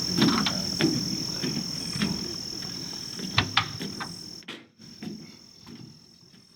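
Night insects trilling in one steady high-pitched tone, with a few scattered clicks, fading out toward the end.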